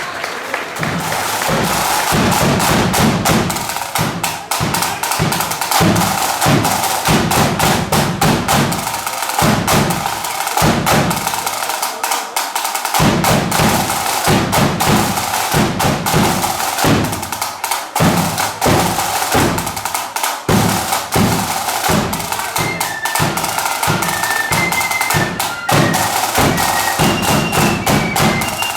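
Marching flute band playing a tune, with snare drums rattling fast and a bass drum beating under the flutes. The loudness builds over the first two seconds, and the high flute notes stand out more clearly in the last few seconds.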